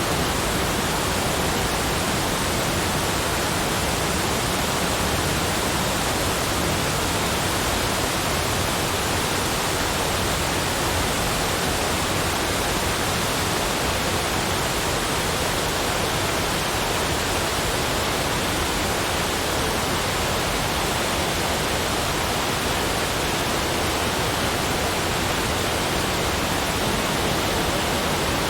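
Steady, unchanging rushing noise spread evenly from low to high pitch, with no individual sounds standing out.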